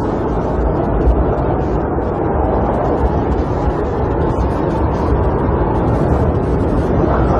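Snowstorm wind blowing steadily against a camper, heard from inside as a constant low rumbling rush with small gusts. Near the end a higher whistling tone starts to rise.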